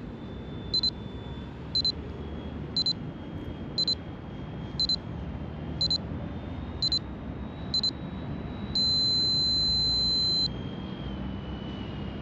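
Electronic alarm beeping in short pairs about once a second, then one long steady beep of nearly two seconds. Underneath runs a faint high whine that shifts slightly in pitch, typical of the A-10 model's ducted-fan jet motors.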